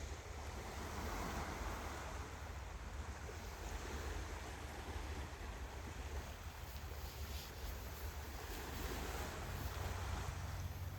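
Steady rushing of surf and wind, with a low rumble of wind buffeting the microphone.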